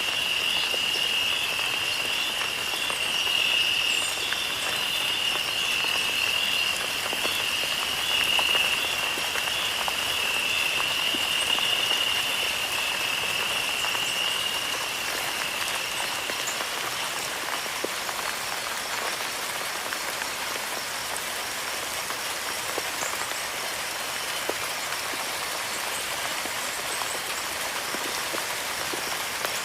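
Steady rain falling, an even hiss dotted with many small drop ticks. A high, steady chorus sits above it and fades out about halfway through.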